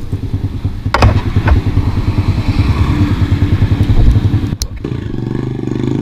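Small motorcycle engine running again after breaking down, idling with a steady low pulse and then pulling away. There are a couple of sharp clicks about a second in and a sharp knock a little past the middle.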